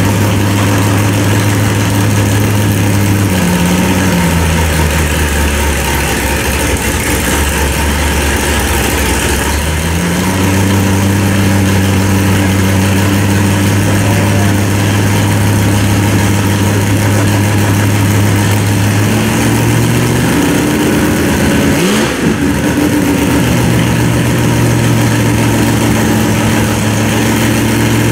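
Car engine idling through a loud exhaust fitted with baffles. The idle drops to a lower, slower note for several seconds early on, then returns, and there is one brief rev about 22 seconds in.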